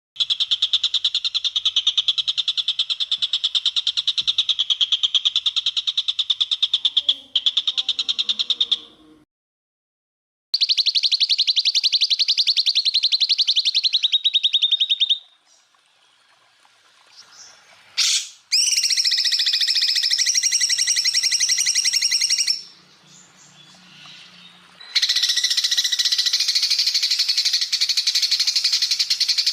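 Greater green leafbird (cucak ijo) song: fast rattling trills of rapidly repeated high notes, the "tembakan" bursts. They come in several separate blocks that start and stop abruptly, with short pauses about 9 s in, 15 s in and 23 s in.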